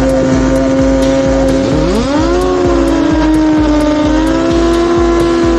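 Drag-racing motorcycle engines running at steady high revs. A second engine revs up about two seconds in, rises in pitch and holds there alongside the first.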